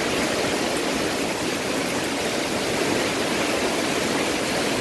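Heavy rain pouring down steadily on trees and a waterlogged yard during a tropical storm.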